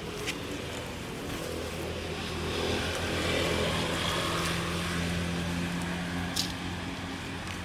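A motor vehicle's engine running, steady in pitch, swelling louder toward the middle and easing off again, with a few sharp clicks.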